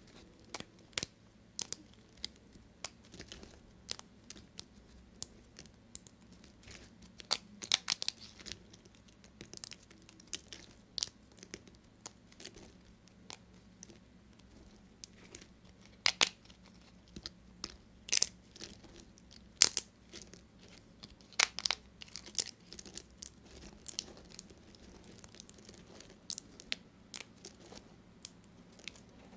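Knife cutting through dry bar soap: an irregular run of crisp crunches and crackles, some much sharper and louder than the rest.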